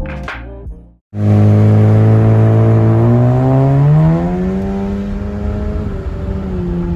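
Background music stops about a second in. Then the exhaust note of a 2016 Honda Civic LX's 2.0-litre naturally aspirated four-cylinder, through an Invidia N1 catback, comes in suddenly and loud. Its pitch climbs steadily for about three seconds under acceleration, then holds roughly level.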